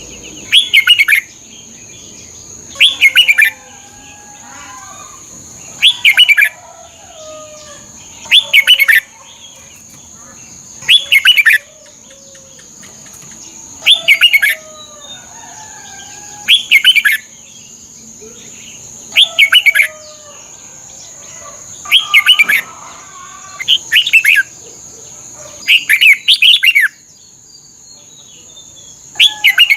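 Red-whiskered bulbul singing short, loud, bright phrases, one about every two to three seconds, with a longer gap near the end. Fainter chirps of other birds and a steady high whine run underneath.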